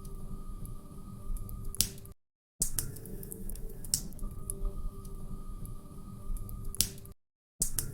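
Log fire crackling: scattered sharp pops and snaps over a low, steady rumble. The sound cuts to dead silence for about half a second twice, about two seconds in and again near the end, as the recording loops.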